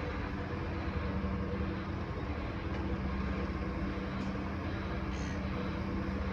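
A train's engines running with a steady low hum.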